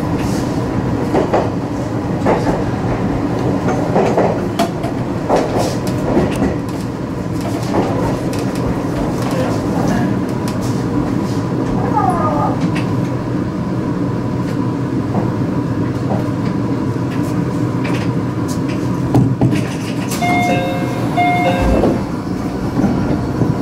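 Meitetsu electric commuter train running along the track, heard from inside the cab, with the wheels clicking over rail joints. Near the end a level-crossing warning bell rings.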